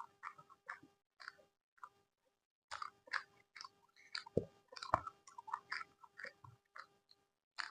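Close-miked chewing of food with wet mouth clicks and smacks, pausing briefly about two seconds in, then chewing more steadily. A couple of low thumps come near the middle.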